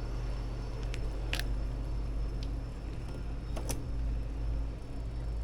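A handful of sharp clicks from a bicycle's gear shifter, the two loudest about a second and a half in and near four seconds in, over the steady low rumble of wind and tyres while riding.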